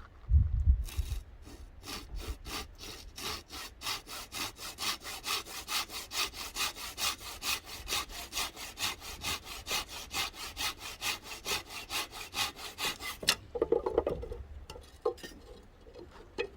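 Hand saw cutting through wood in quick, even back-and-forth strokes, stopping about thirteen seconds in. A few heavy knocks come at the very start, and another just after the sawing stops.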